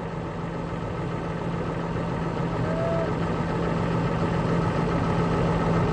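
A vehicle engine running steadily with a low hum, slowly growing louder. About three seconds in there is a brief high call.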